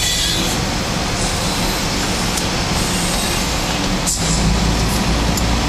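Steady rumble and road noise of a moving vehicle, heard from inside it.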